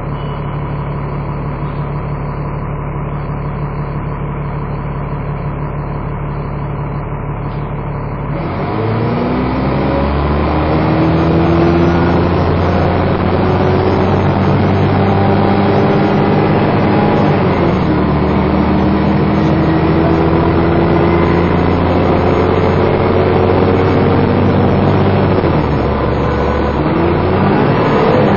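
Dennis Trident 2 double-decker bus engine idling steadily, then about eight seconds in pulling away under hard acceleration. Its note and a hoover-like whine climb, drop back at gear changes around halfway and near the end, then climb again.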